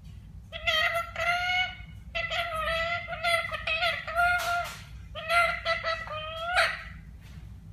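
A talking parrot calling in four drawn-out, pitched calls of about a second each.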